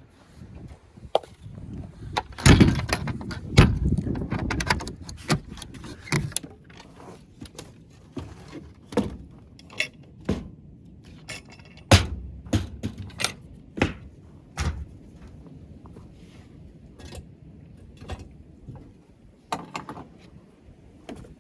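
A series of irregular knocks, clacks and thuds of hard objects being handled and set down, thickest in the first third and again in the middle.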